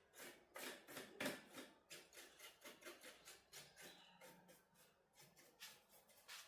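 Faint, irregular light clicks and scratches of small objects being handled, a few each second, busiest about a second in.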